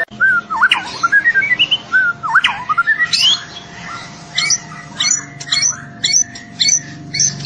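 White-rumped shama (murai batu) singing: swooping whistled notes first, then from about halfway a quick run of short repeated notes, the 'trotol' style of song.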